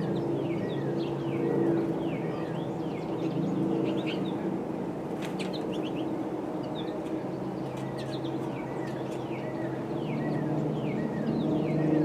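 Small birds chirping over and over, short quick chirps that fall in pitch, over a steady low rumble.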